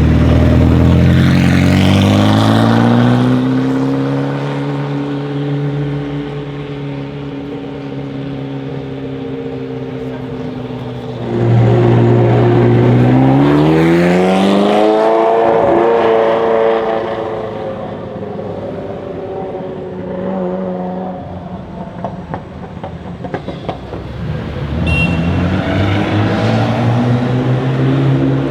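Ferrari supercar engine accelerating hard: the revs climb in the first few seconds, hold steadier, then dip and climb again about twelve seconds in, with another rise near the end.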